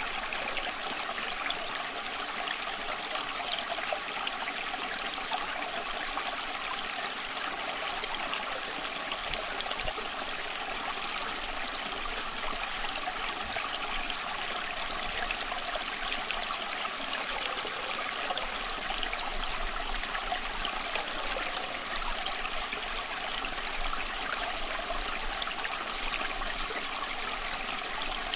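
A small stream running over stones, a steady trickling and babbling.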